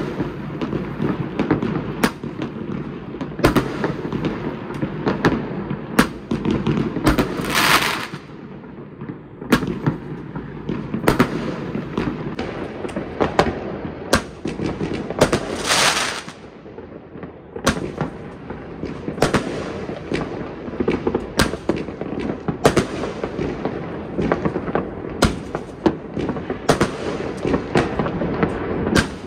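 New Year fireworks going off across a city: sharp bangs come every second or so over a continuous low rumble, with two longer hissing bursts, one about a third of the way in and one past the middle.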